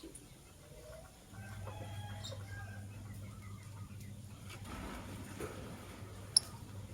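Soft bird calls in short pitched notes over a steady low hum that comes in about a second in, with one sharp click near the end.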